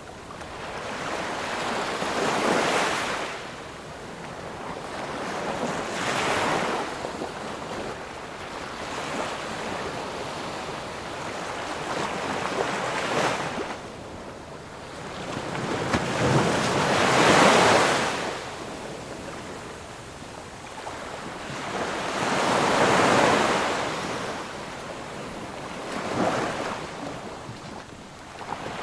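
Ocean waves breaking and washing on a shore, swelling and receding in a slow rhythm, a surge every few seconds, the loudest in the middle of the stretch.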